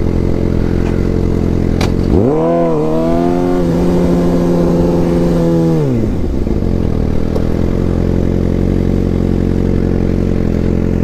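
Motorcycle engine idling, revved up sharply about two seconds in, held at higher revs for about four seconds, then dropping back to a steady idle.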